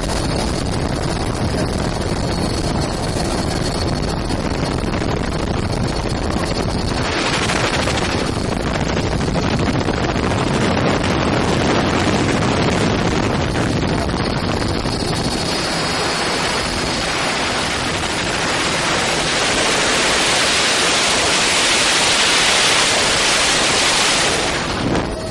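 Helicopter in flight heard from on board: a steady rush of rotor and engine noise mixed with heavy wind buffeting on the microphone. The hiss grows louder and brighter partway through and cuts off suddenly near the end.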